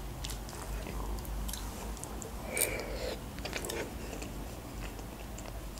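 Close-miked chewing of soft food, with faint wet mouth clicks scattered through.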